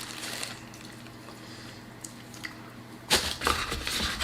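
Quiet at first, then from about three seconds in a run of close, wet squishing and rustling as food from a seafood boil is handled.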